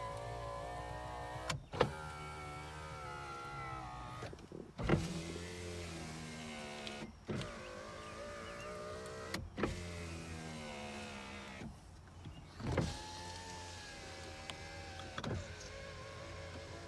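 2001 Toyota Camry power window motors running in turn, a steady whine that lasts a couple of seconds each time and ends in a clunk, over and over. The windows are working normally.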